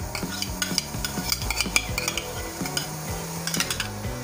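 Spiced masala frying in oil in a large aluminium pot, sizzling and crackling as yogurt is poured in, with many sharp clicks of a spoon stirring and scraping against the pot. This is the bhuna stage, the masala being fried down.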